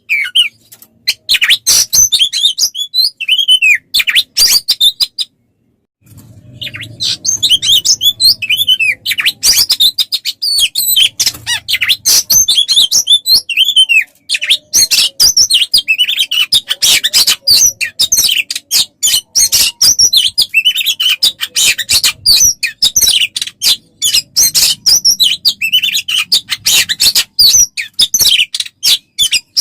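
A songbird sings a rapid, unbroken run of chirps, whistles and trills, pausing briefly about five seconds in. It is a bird-song tutor recording (masteran) used to train Oriental magpie-robins.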